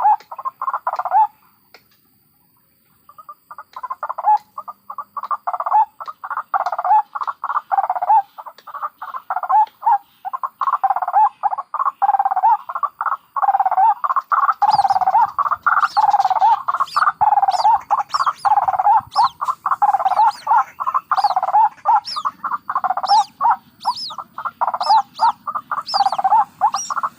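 White-breasted waterhens (ruak-ruak) calling in a fast, continuous run of repeated croaking cackles, with a brief break about two seconds in. High, thin chirps join in about halfway through.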